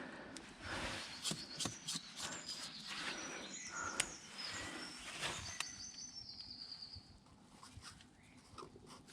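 A bird singing a run of short high chirps ending in a falling trill, over footsteps and rustling handling noise.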